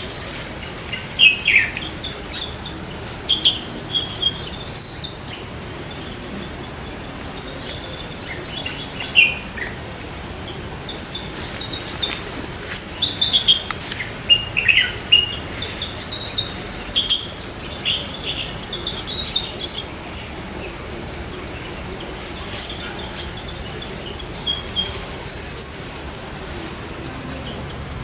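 Birds singing in clusters of short, quick, mostly falling chirps, with pauses between phrases, over a steady high-pitched insect drone.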